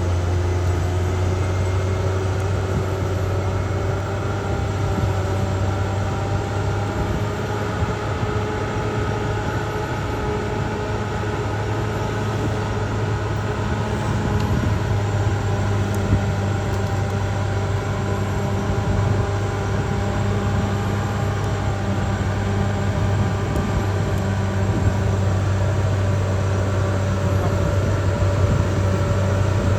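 Caterpillar D6R XL bulldozer's diesel engine running steadily as the machine works: a constant low drone with higher tones that drift slowly in pitch.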